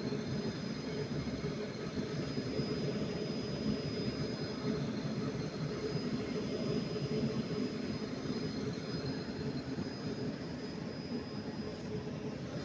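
Northern passenger train running at a station platform: a steady mechanical hum with a faint, constant high whine over it.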